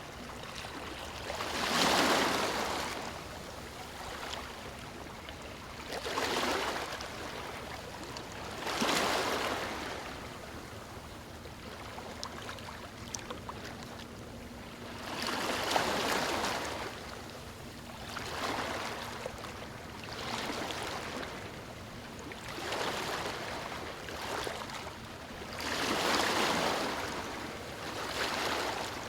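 Waves breaking on a stony shore: repeated swells of rushing surf every few seconds over a constant wash of water, the strongest about two seconds in.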